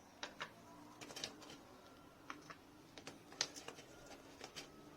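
Small white stones clicking against one another as they are set in place by hand: about ten faint, separate light clicks at an irregular pace.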